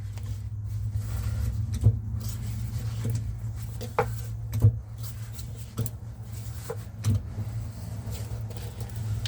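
Zocca 500 metal shaper's mechanism being worked at minimum stroke: a steady low hum with short knocks every second or two. The mechanism is moving freely again, no longer binding, with some free play left in it.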